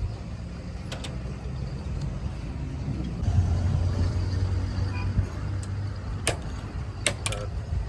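A steady low machine hum that grows louder after about three seconds, with a sharp knock about a second in and three more near the end.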